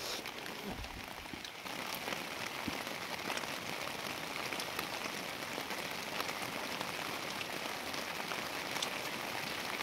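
Rain falling steadily, an even hiss with scattered faint drop taps.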